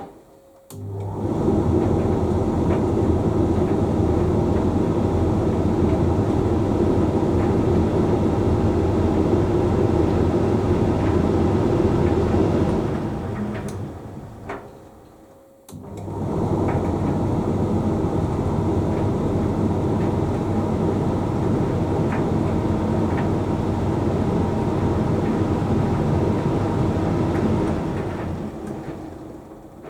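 Hoover Link X Care condenser tumble dryer running a drying cycle: a steady rumble of the turning drum and load over a motor hum. About halfway through it slows to a brief stop and starts again, then slows again near the end, typical of the drum pausing to reverse direction.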